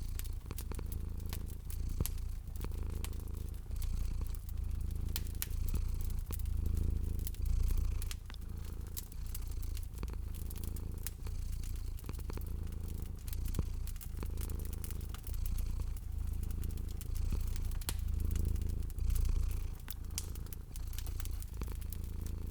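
Domestic cat purring steadily, the low purr swelling and easing with each breath about every couple of seconds, over the scattered small pops and crackles of a wood fire.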